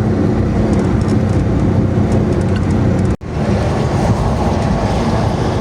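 Daewoo Matiz driving at road speed, heard inside the cabin: a steady engine hum over tyre and road noise. The sound drops out for a moment a little over three seconds in.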